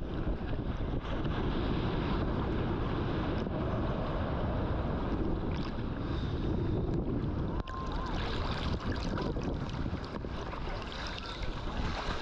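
Ocean surf rushing and breaking, with wind buffeting the action camera's microphone: a steady, dense rush of noise.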